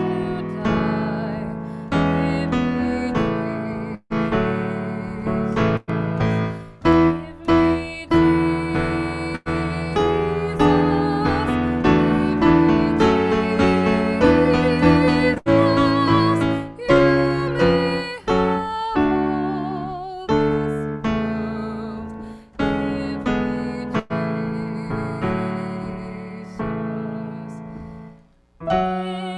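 Slow, gentle piano music: notes and chords struck and left to ring and fade, with a short pause near the end.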